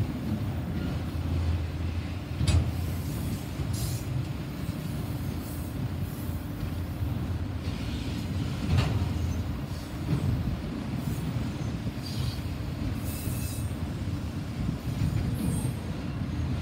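Freight train autorack cars rolling past: a steady low rumble of steel wheels on rail, with two sharp clanks about 2.5 and 9 seconds in and a few brief high-pitched wheel squeals.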